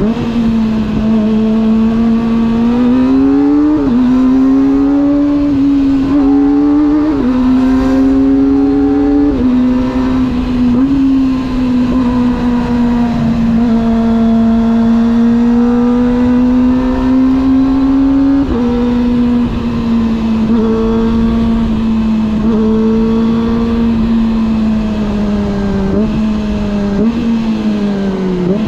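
Motorcycle engine heard on the move, its pitch climbing and then stepping down several times in the first ten seconds as the rider shifts gears. It then holds a steady cruising note, drops again a little past halfway, and falls away near the end as the bike slows.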